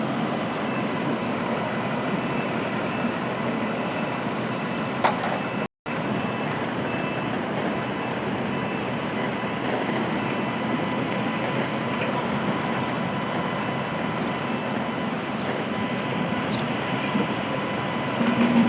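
Steady outdoor noise of street traffic and construction machinery, which cuts out completely for a moment about six seconds in.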